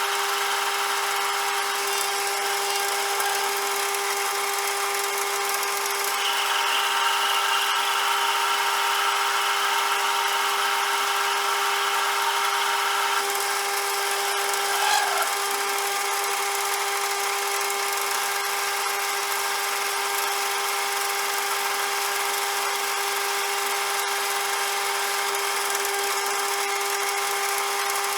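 CJM360 metal lathe running with a steady machine whine. About six seconds in it grows louder and harsher for roughly seven seconds, then settles back, with a short blip a little after.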